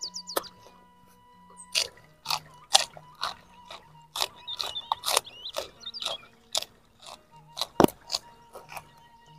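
Close-up crunching and chewing of raw leafy greens and stems, about two crisp bites a second, with the sharpest crunch near the end.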